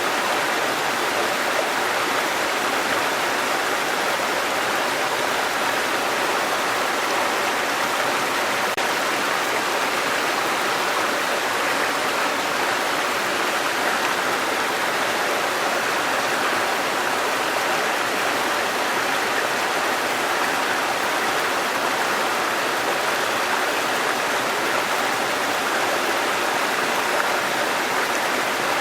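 Waterfall: the steady rush of falling and running water, an even noise that does not change.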